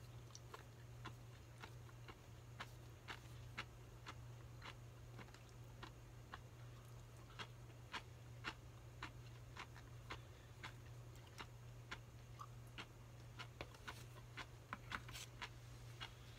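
Close-up chewing and lip-smacking while eating oden: soft sharp clicks at about two a second, over a faint steady low hum.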